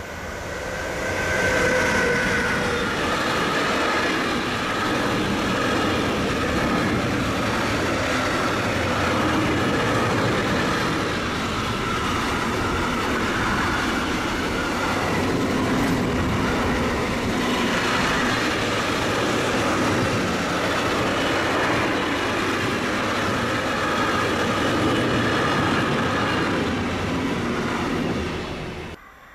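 A Siemens Vectron electric locomotive passes close by with a whine that falls in pitch, followed by a long intermodal freight train of container and trailer-carrying wagons. The wagons roll by with a steady rumble and clatter of wheels over the rails, which cuts off suddenly near the end.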